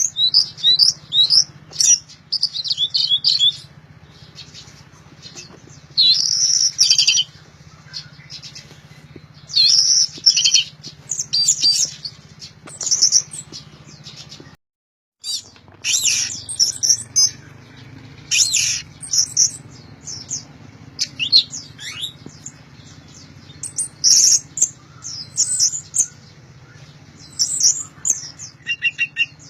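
Orange-headed thrush (anis merah) singing loudly in quick repeated phrases of high chirps and whistles, separated by short pauses. The sound cuts out for a moment about halfway through.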